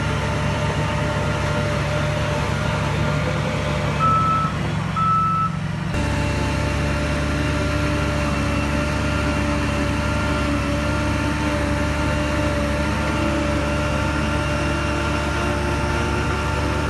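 Heavy earth-moving machine's diesel engine running steadily. A reversing alarm gives two short, high beeps about four and five seconds in.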